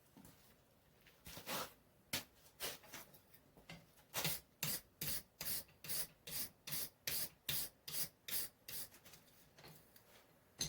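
Wire brush scrubbed back and forth across the steel in short scraping strokes, cleaning the surfaces to be forge welded. A few scattered strokes come first, then a steady run of about two a second.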